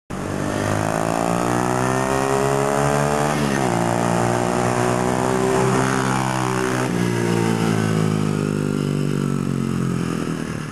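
SSR125 pit bike's single-cylinder four-stroke engine accelerating hard through the gears: the pitch climbs, drops suddenly at an upshift about three and a half seconds in, climbs again, shifts once more about seven seconds in, then holds a near-steady high pitch at speed.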